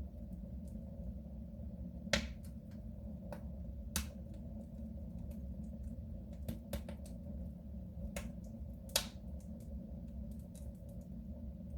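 Wood fire crackling in a soapstone stove: irregular sharp pops and ticks, the loudest about two, four and nine seconds in, over a steady low rush.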